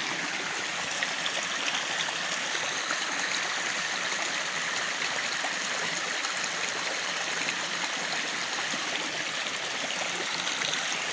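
Spring-fed mountain stream running and trickling over rocks: a steady rush of water with no change in level.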